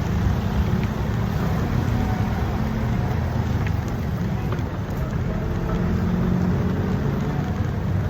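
Steady low rumble of road traffic and wind on the microphone while riding a bicycle through city streets, with faint engine hum.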